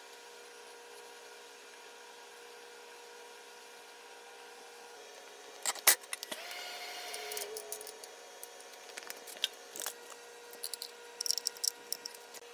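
Hand tools handling metal parts over a faint steady hum. About six seconds in there is a sharp clack, then a second or so of scraping rattle, then scattered light clicks and ticks near the end.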